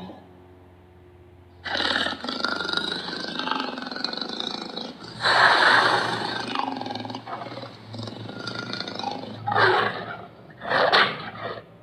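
A large animal roaring: after a short silence, a long rough call with its loudest stretch about five seconds in, then two shorter roars near the end.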